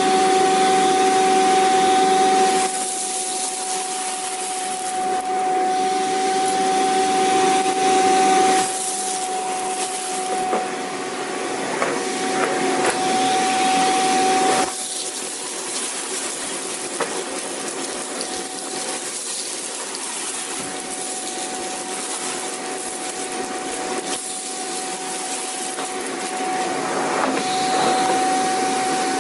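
Vacuum cleaner running: a steady high motor whine over a rushing hiss. The loudness steps down a little about three seconds in, comes back up, drops again around halfway, and rises again near the end.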